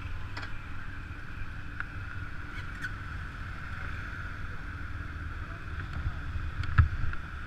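Steady wind rumble on the microphone over a scooter's running engine while riding, with a sharp knock near the end.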